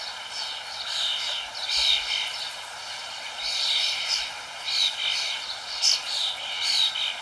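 Several songbirds chirping in short high phrases, roughly once a second, over a steady rushing hiss in the background.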